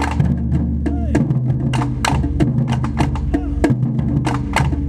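Japanese taiko drums played by an ensemble: a fast, steady run of sharp strikes over the low ringing of the drumheads.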